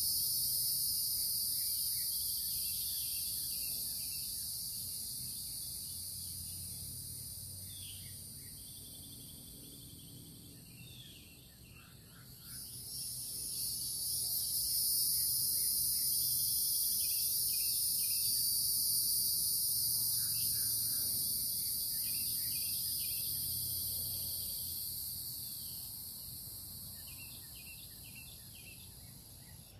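Loud, steady, high-pitched insect chorus. It fades over the first dozen seconds, surges back about twelve seconds in, and fades again near the end. Short bird chirps are scattered beneath it.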